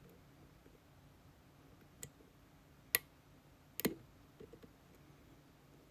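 Lock pick clicking against the pins inside a GeGe pExtra+ lock cylinder as the pins are probed one by one: a few sharp, separate clicks, the loudest about three seconds in and a quick double click just before four seconds.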